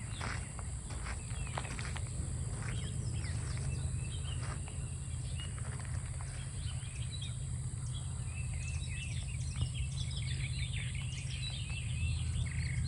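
Birds chirping and singing outdoors, with many short calls in the second half, over a steady low rumble and a steady high hiss. Light footsteps in the first few seconds.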